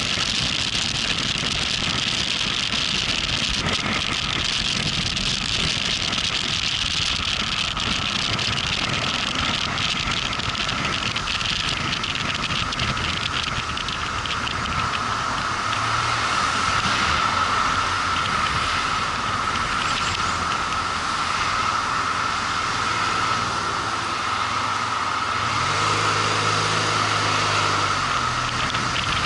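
Motorcycle on the move: a steady rush of wind noise over the engine. Steady low engine tones come through more clearly in the second half, strongest near the end.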